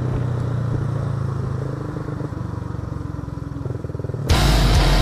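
Honda CBR150R single-cylinder four-stroke engine running under way, heard from the rider's seat with road and wind noise; the engine note softens and quietens about halfway through. Loud music cuts in abruptly near the end.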